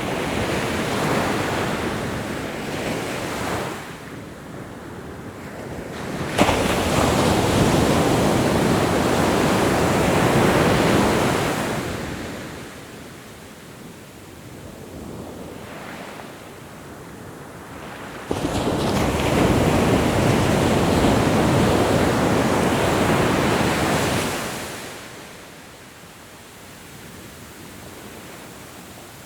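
Ocean waves breaking on a shore. Two waves crash in suddenly, about six and eighteen seconds in, each washing for several seconds before falling away to a quieter hiss.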